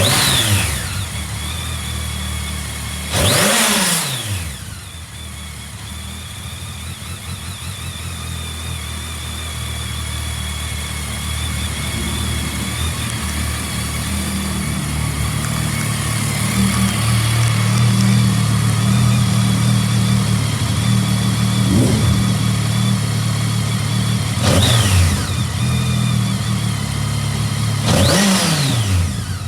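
BMW K1200S inline-four engine idling, with five quick blips of the throttle: near the start, a bigger one about three seconds in, and three more in the last third. Each rev rises and drops straight back to idle.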